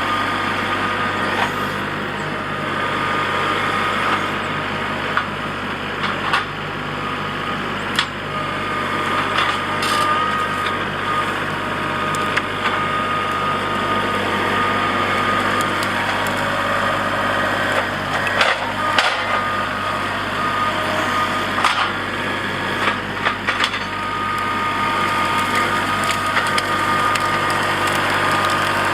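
Kubota L3901 compact tractor's diesel engine running steadily while its grapple grabs and crushes brush, with branches cracking and snapping now and then.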